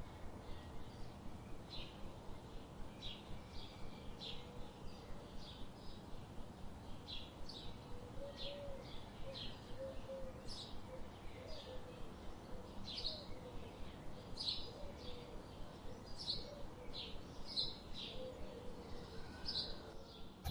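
Birds chirping outdoors: short, high chirps repeating every second or so, with a softer, lower warbling call joining from about a third of the way in.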